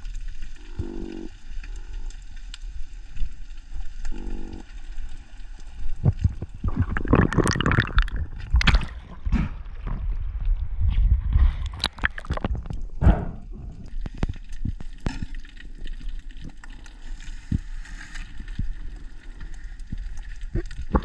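Underwater sound on a GoPro during a freedive: a steady low rumble of water, with gurgling and sloshing swells and many sharp clicks and knocks through the middle. In the first few seconds come three or four short, low, pitched croak-like pulses.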